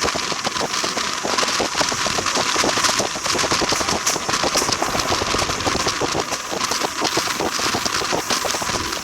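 Train running on rails: a steady noise of moving rolling stock, full of dense, irregular rattling and clicking.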